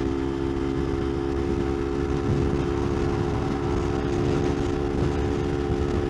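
Kawasaki Ninja 250R's parallel-twin engine running at a steady pitch while cruising on the freeway, with a rough low wind rumble over the helmet microphone.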